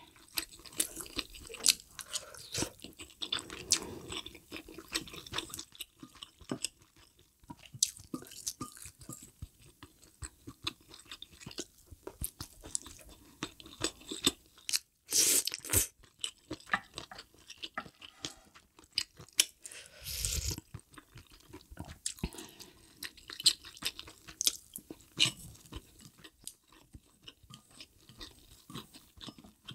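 Close-miked chewing and biting of spicy mala hot-pot food: a steady run of small wet clicks and crunches. Two louder noisy bursts come about halfway through.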